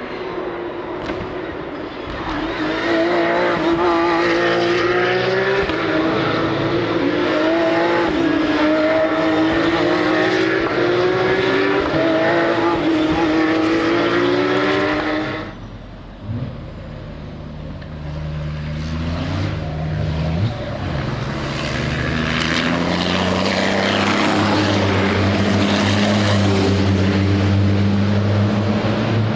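Racing engines at full throttle on a circuit: one engine climbs in pitch through several upshifts, then cuts off abruptly about halfway through. A deeper engine takes over and slowly rises in pitch as it builds speed.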